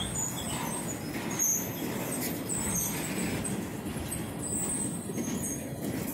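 Freight train of empty centerbeam flatcars rolling past, a steady rumble of steel wheels on the rails with brief high-pitched wheel squeals now and then.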